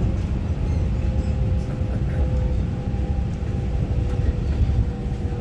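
Taiwan Railway EMU900-series electric multiple unit running, heard from inside the passenger car: a steady low rumble of wheels on the track with a faint, steady motor whine.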